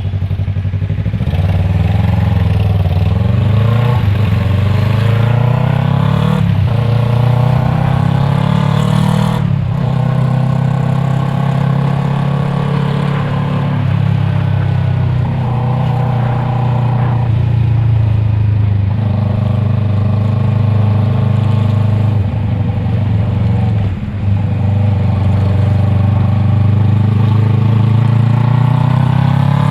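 Yamaha MT-03's parallel-twin engine through an Arashi aftermarket exhaust while riding. The pitch climbs under acceleration and drops at each gear change, several times over.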